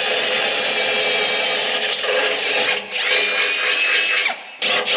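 Power drill boring a hole for a light-bar switch, motor running steadily. It stops briefly twice, just before the three-second mark and near the end, spinning back up each time.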